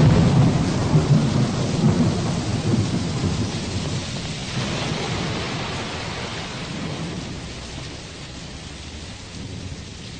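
A thunderclap breaks right at the start and rumbles on for several seconds over steady rain, the recorded storm effects that close the song; the rain slowly fades toward the end.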